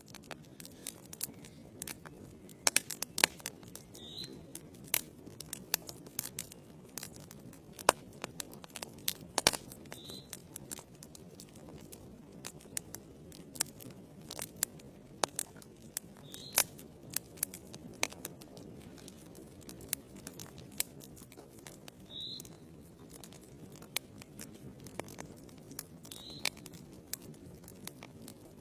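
Wood logs burning in a fireplace, crackling with irregular sharp pops and snaps over a low, steady rumble of the flames, with a brief hiss every several seconds.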